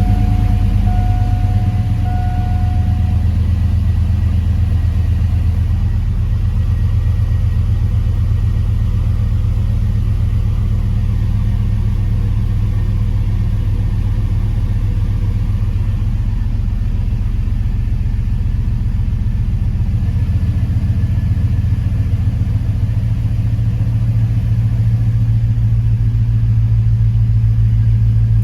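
2002 Chevrolet Silverado's engine idling steadily just after a cold start, a deep even rumble. A dash chime beeps a few times in the first three seconds.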